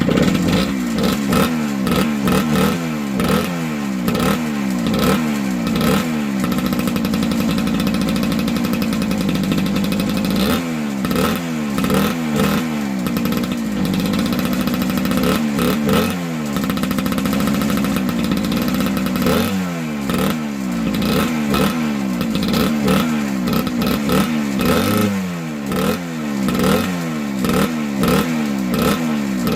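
1978 Yamaha DT100's two-stroke single-cylinder engine revving up and down over and over, its pitch rising and dropping every second or so, with a couple of steadier stretches. It is being run to test a carburettor air-screw adjustment.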